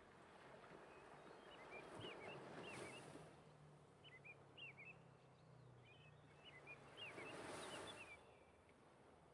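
Faint birdsong: quick high chirps in three short bursts, over a soft hiss that swells twice.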